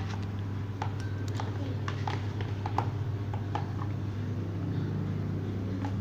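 Glue being stirred in a container for slime, the stirrer clicking and tapping against the sides at irregular intervals, over a steady low hum.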